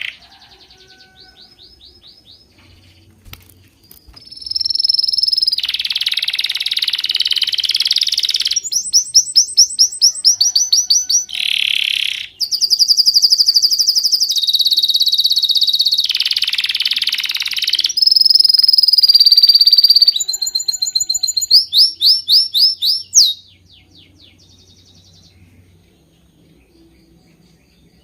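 Birds chirping in high, rapid trills and repeated whistled notes, several calls overlapping. Faint and sparse at first, loud through the middle, then faint again near the end.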